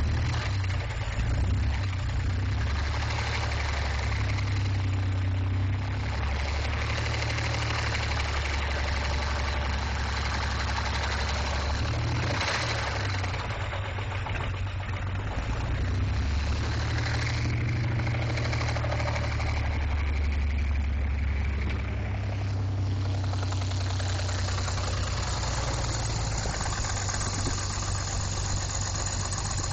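Chevrolet 4.3-liter TBI V6 running with no oil or coolant while it is run to destruction. Its speed shifts up and down several times.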